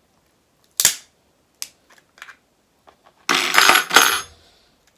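Crab claw shell cracking: one sharp crack about a second in, a few small clicks, then about a second of dense crunching and crackling past the middle.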